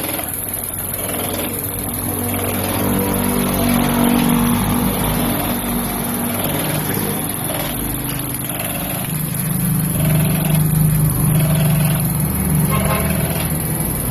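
Ford Ranger 2.2-litre diesel engine running, its pitch rising and falling a few times.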